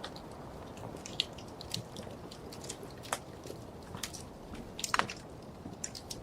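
Wood fire crackling: irregular sharp pops and snaps over a steady soft hiss, with a louder cluster of pops about five seconds in.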